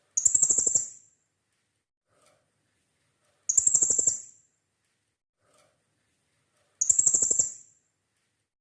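Blue-crowned hanging parrot (serindit) calling: three identical bursts of rapid, high-pitched chirps, each lasting under a second and repeating evenly about every three seconds, as in a looped lure recording for setting other serindit birds calling.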